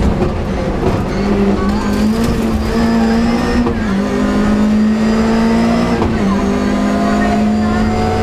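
Rally car engine under hard driving, heard from inside the stripped cabin. The engine note is loud and steady, its pitch stepping up and down slightly several times.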